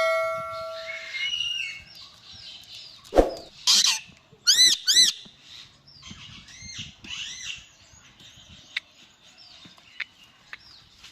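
Indian ringneck parrot calling, with several loud screeches about four to five seconds in, then softer chirps and squawks. There is a sharp thump about three seconds in and scattered clicks near the end.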